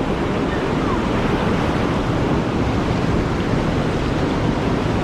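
Steady rush of river whitewater pouring through a rapid, a loud even hiss with wind on the microphone.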